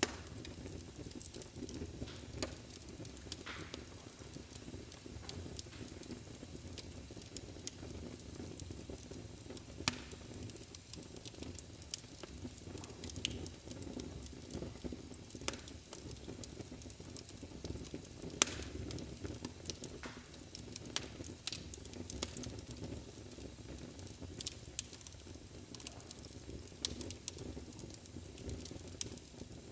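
Wood fire burning in a fireplace: a steady low rush of flame with frequent sharp, irregular crackles and pops, one louder pop about two-thirds of the way through.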